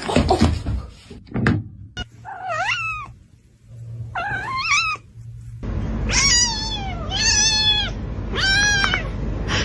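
Domestic cat meowing: five drawn-out meows, each rising and falling in pitch, coming in quick succession over the latter part. A few knocks are heard in the first couple of seconds.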